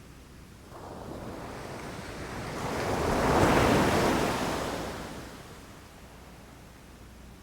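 Sea waves on a beach: a wave builds about a second in, breaks loudest around three and a half seconds, then washes out and fades to a low hiss.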